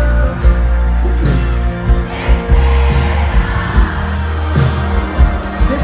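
Live concert music through a loud PA, with a heavy, regular bass beat and singing.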